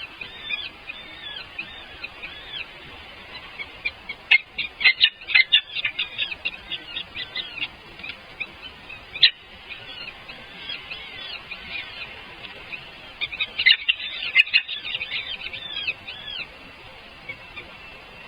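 Baby birds begging with high cheeping calls: many short chirps throughout, rising twice into loud flurries of rapid cheeping, about four seconds in and again about fourteen seconds in.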